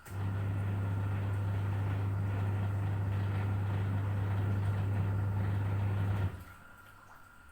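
Electric household appliance running with a steady low hum, switching on abruptly and cutting off about six seconds in.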